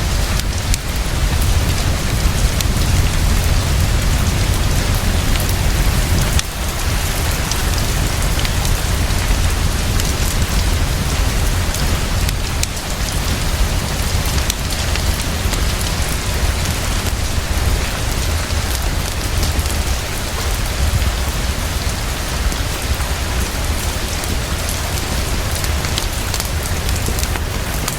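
Heavy, fast, steady rainfall: a dense, even hiss of drops with a steady low rumble underneath.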